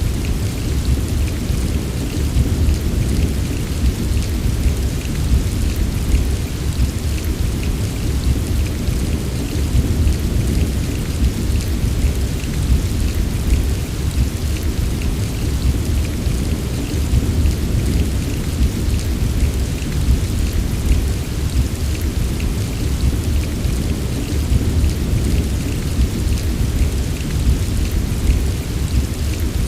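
Steady rain falling with fine pattering drops over a constant low rumble, without a break or a separate thunderclap.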